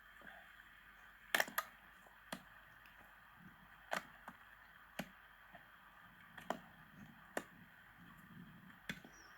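A series of sharp, irregular knocks and clicks, about a dozen spread over several seconds, over a faint steady hiss.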